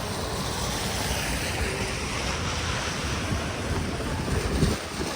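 Wind buffeting the microphone: a steady rushing noise with a heavy low rumble, with a brief louder bump near the end.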